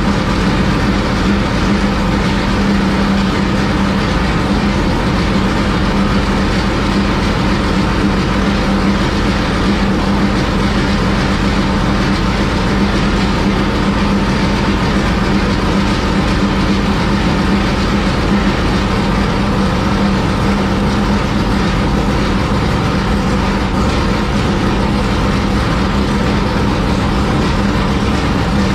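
Freshly installed small-block Chevy dirt late model race engine running at a steady speed on its first start-up after the swap, being warmed up while its ignition timing is set.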